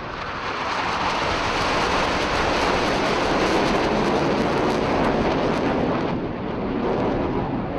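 Jet aircraft making a low pass at an air display: a loud jet roar swells over the first second, holds, dips briefly about six seconds in, then comes back.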